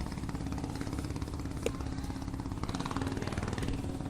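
An engine running steadily, its low rumble pulsing rapidly, with one short sharp click about a second and a half in.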